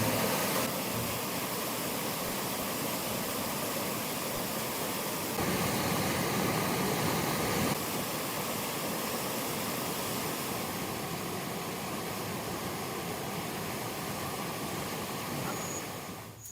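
Steady hiss of heavy rain, with a few abrupt changes in level.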